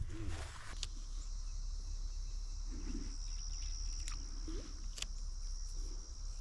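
A steady, high-pitched insect trill held on one note, over a low rumble, with a few faint clicks.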